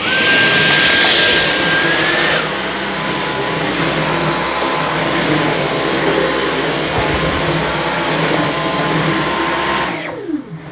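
Dyson V15 Detect cordless stick vacuum switched on, its motor running with a high whine. About two and a half seconds in it drops to a lower speed and runs steadily. Near the end it is switched off and the whine falls away as the motor spins down.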